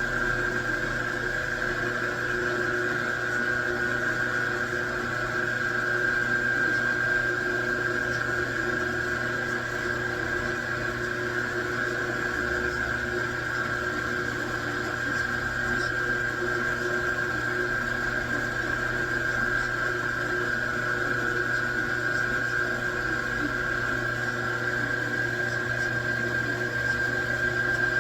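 A machine tool running steadily, with a constant high whine over a low hum and no change in speed.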